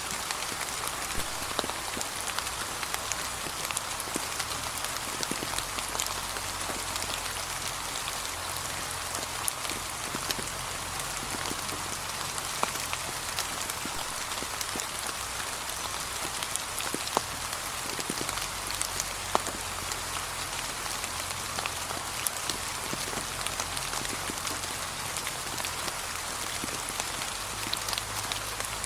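Gentle, steady rain falling, with separate drops landing as sharp ticks scattered throughout.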